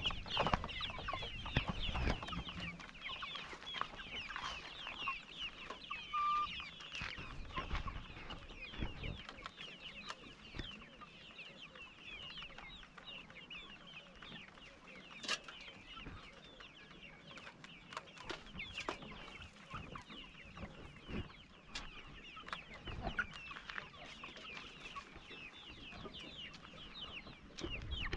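A flock of young improved kienyeji chickens cheeping and clucking, many short, high calls overlapping without a break, with a few sharp clicks.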